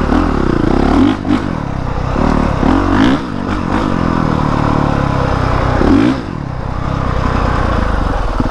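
Honda CRF450R's single-cylinder four-stroke engine revving up and down as the throttle is worked, the pitch rising and falling, easing off briefly about a second in and again about six seconds in.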